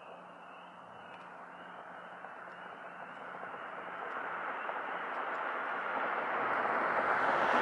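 A car approaching along the road, its engine and tyre noise growing steadily louder through the whole stretch.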